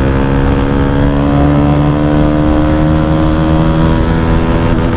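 Motorcycle engine pulling under acceleration, heard from the bike, its pitch climbing slowly and steadily, then falling away near the end.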